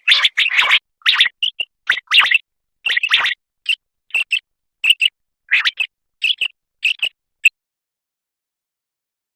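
Common quail calling: short high notes, often in quick pairs, repeated every half second or so, stopping about two seconds before the end.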